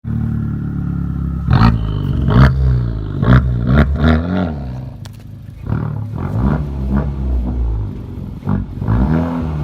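Honda Civic Type R's turbocharged 2.0-litre four-cylinder engine revving and accelerating, its note rising and falling several times. A few sharp cracks come in the first four seconds.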